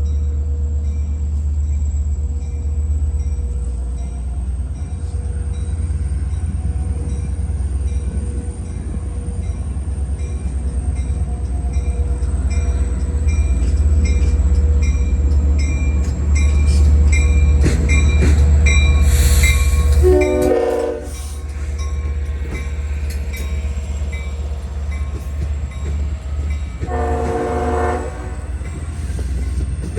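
Diesel locomotive train pulling out and moving off with a heavy, steady engine rumble that builds to about two-thirds of the way through. Two chord horn blasts, about a second each, sound near the end.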